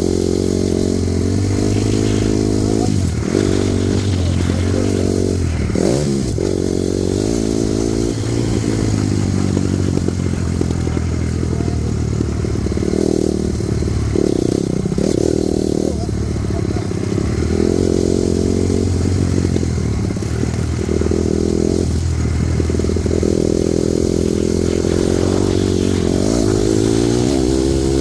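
Honda CRF250R's single-cylinder four-stroke engine being ridden hard, revving up and dropping off again and again as the throttle is opened and closed.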